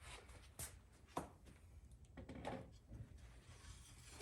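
Near silence with a few faint knocks and clicks, the sharpest about half a second and about a second in.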